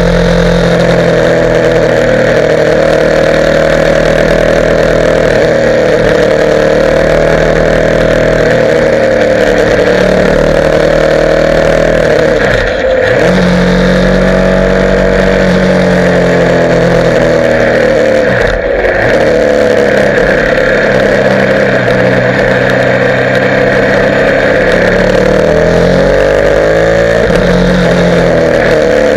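Motorcycle engine running under way, its pitch rising and falling with the revs. Twice, about halfway through and again some six seconds later, the note drops sharply and comes straight back up.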